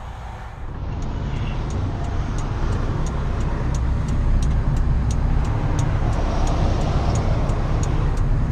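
Heavy truck engine running, heard from inside the cab, with a low rumble that grows louder from about a second in. Light regular ticks come about twice a second throughout.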